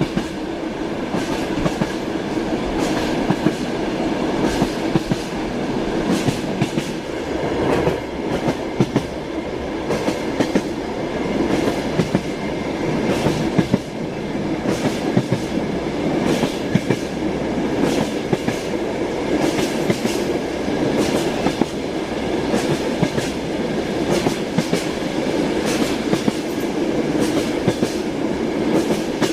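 Train wheels clattering over the rail joints with a steady running rumble, the clicks coming continually as the train runs at speed.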